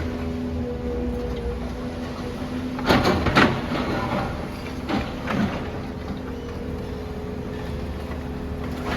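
Demolition excavator's engine running steadily while rubble crunches and scrapes. The loudest crash is about three seconds in, with another around five seconds.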